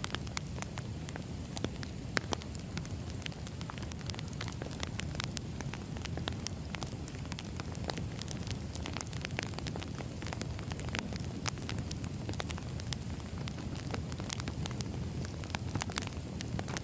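Wood fire burning: a steady low rumble of flames with frequent irregular crackles and pops of burning firewood.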